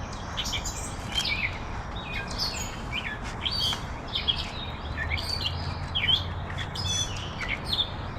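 Several songbirds chirping and calling, many short overlapping chirps and quick pitch glides, over a low steady rumble.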